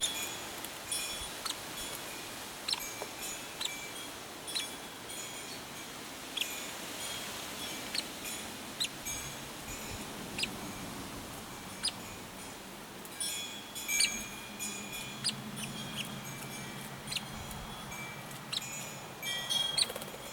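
Birds chirping: short, sharp, high calls scattered irregularly, a few each second, with small clusters about 14 s in and near the end.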